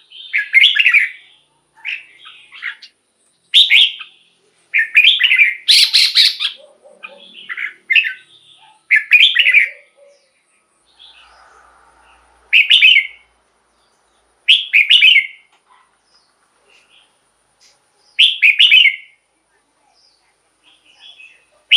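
Red-whiskered bulbul singing loud, short, bubbling whistled phrases. They come in quick succession for the first half, then as single phrases every two to three seconds.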